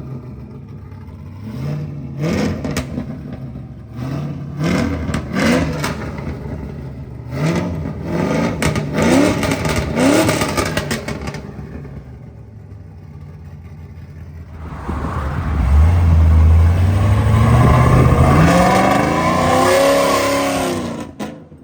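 1984 Chevrolet C10's engine running through a custom 3-inch true dual exhaust with Flowmaster Outlaw mufflers. It idles with a series of short throttle blips, then about two-thirds in gives a longer, louder rev that climbs in pitch and falls back near the end.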